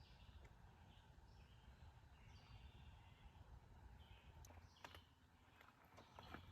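Near silence: faint outdoor ambience with distant birds chirping and a few soft clicks.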